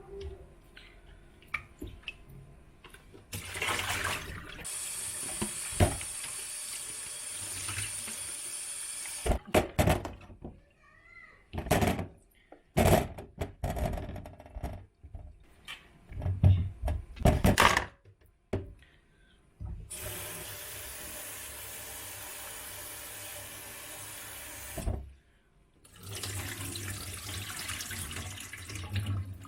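A kitchen tap runs water into a sink and is turned on and off several times. In between there are sharp knocks and clatter, such as items being handled at the sink.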